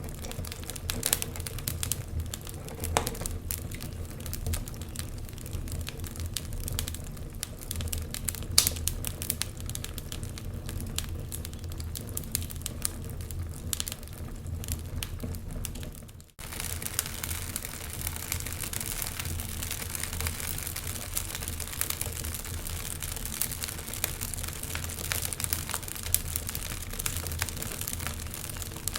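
Wood fire crackling, with frequent sharp pops and snaps over a low steady rumble. The sound drops out for a moment about sixteen seconds in, then carries on as before.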